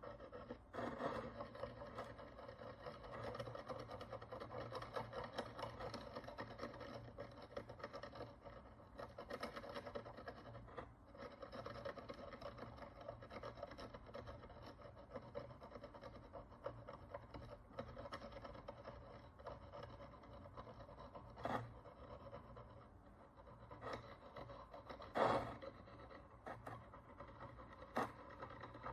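Steady fine scraping as a hand tool works the crust and oxidation off an ancient Roman bronze coin, with a few sharp clicks of the tool against the coin near the end.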